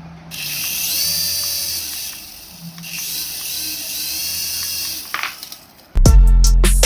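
A small electric toy motor and its plastic gears whir in two bursts of about two seconds each, the pitch rising and falling. There is a click about five seconds in, and background music cuts back in near the end.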